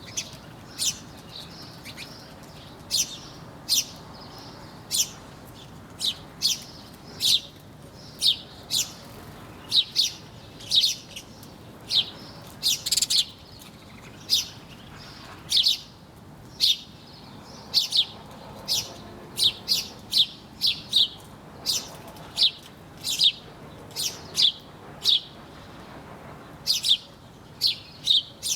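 Small birds chirping: short, sharp, downward-sweeping chirps come irregularly, about one or two a second, over a faint steady background hiss.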